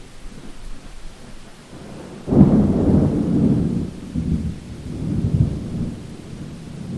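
Thunder during a rainstorm: a sudden crack of low rumble about two seconds in that rolls on in uneven waves, over steady rain.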